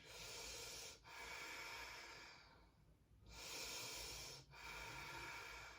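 Slow, deep breaths from a person holding a seated stretch, soft and faint: two breaths, a pause of about a second, then two more.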